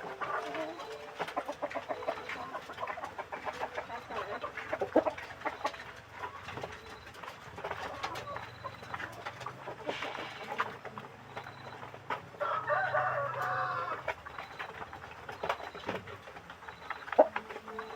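A flock of chickens clucking and calling, with a longer, louder call from about twelve to fourteen seconds in, over many small clicks and knocks.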